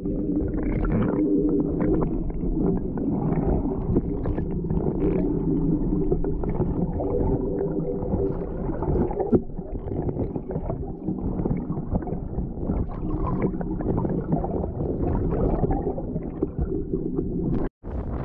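Muffled underwater sound from a camera held below the surface of shallow sea water: dull rumbling and gurgling of moving water with small knocks, as a wader moves through it over stones and seaweed. Near the end it cuts off abruptly and gives way to wind on the microphone and waves above the surface.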